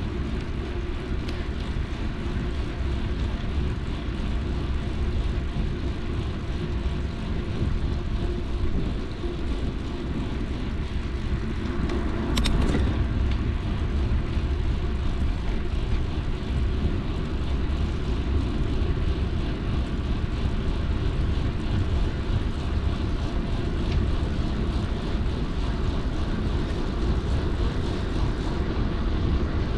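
Mountain bike riding on a trail heard through an action camera's microphone: steady wind rush and rumble from the tyres rolling over the dirt, with a single sharp click or knock about twelve seconds in.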